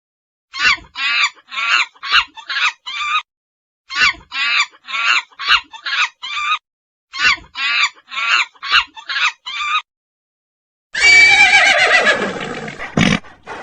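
A monkey gives three bouts of rapid chattering calls, about six short calls in each. Near the end a horse whinnies loudly, its pitch falling over about two seconds.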